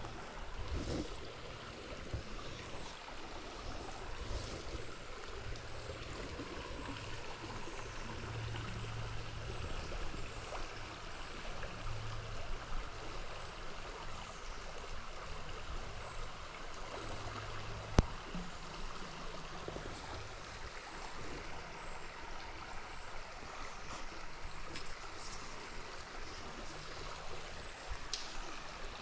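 River water flowing steadily over stones, with one sharp click about two-thirds of the way through.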